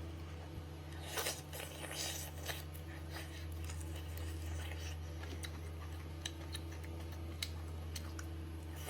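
Close-up eating sounds: boiled chicken being torn and chewed. There is a run of crackling, tearing noises a second or so in, then scattered small clicks, over a steady low hum.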